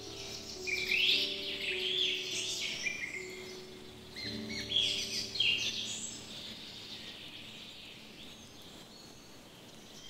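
Songbirds chirping and singing, many quick rising and falling notes, busiest in the first six seconds and thinning out towards the end, over faint sustained background music notes.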